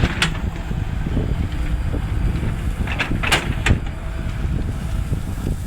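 Volvo excavator's diesel engine running with a steady low rumble, with a sharp clatter just after the start and a few more about three to four seconds in.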